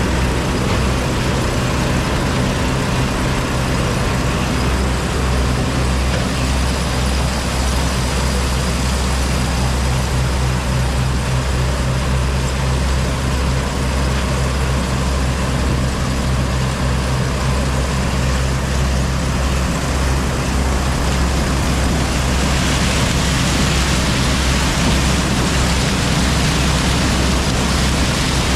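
Heavy diesel farm machinery running steadily: a low engine drone under a broad rushing noise. Late on, a brighter hiss grows louder.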